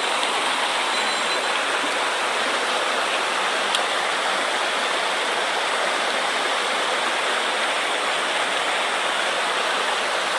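Rushing water of a mountain stream running high and fast after a typhoon, a steady roar of rapids with no break.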